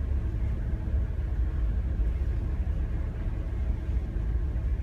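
Steady low engine drone and rumble of a towboat's engines, heard from inside the wheelhouse while underway.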